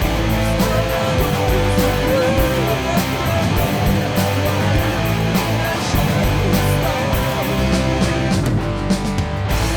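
Worship band playing an instrumental rock passage: a sustained electric guitar lead line over drums and bass.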